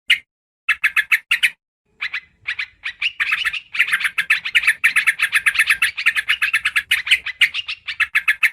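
Yellow-vented bulbul (trucukan) calls, a recording used as a bird lure: rapid strings of short chattering notes in brief bursts. From about three seconds in they run together into a dense, continuous chatter until near the end.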